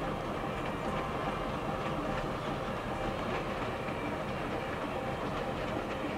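Diesel trains running: a steady engine rumble with a few faint clicks of wheels on the rails.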